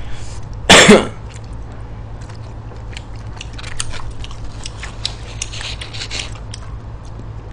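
Close-miked eating sounds: chewing on stir-fried pig intestines and rice, with scattered small clicks of chopsticks against a bowl, over a low steady hum. A brief loud vocal sound comes about a second in.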